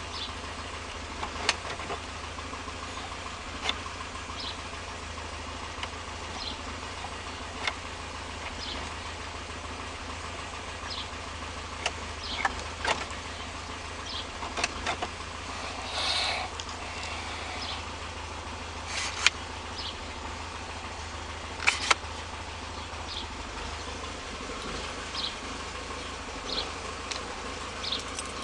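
1973 Opel GT engine idling steadily, with irregular sharp clicks scattered over it.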